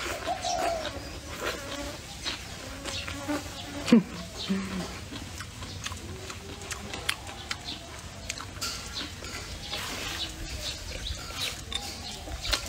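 Close-up mouth sounds of someone chewing braised pork belly: irregular wet smacks and clicks, with one sharper, louder sound about four seconds in.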